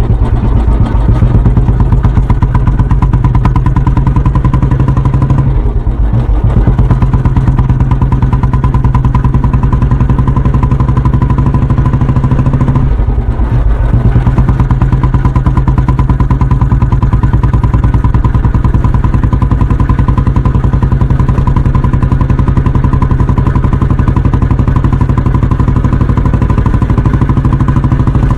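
Royal Enfield Bullet 350's single-cylinder four-stroke engine running steadily, its exhaust note a close, even thumping, with brief dips in the note about six seconds in and again about thirteen seconds in.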